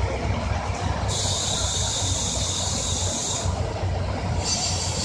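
KiHa 185 diesel railcar idling with a steady low engine rumble. A loud hiss of released compressed air starts about a second in and lasts a couple of seconds, then starts again near the end.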